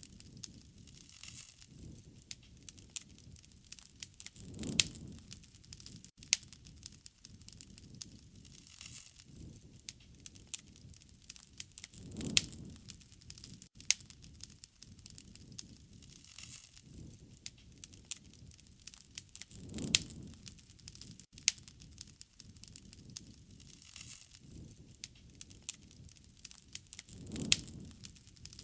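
Wood fire crackling, with frequent sharp pops and snaps and a low rushing swell of flame about every seven to eight seconds.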